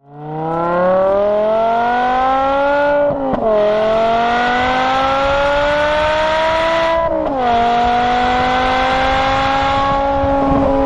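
BMW M6's naturally aspirated V10 accelerating hard, its pitch climbing through a gear. It upshifts twice, about three and seven seconds in, each time the pitch dropping sharply before it climbs again.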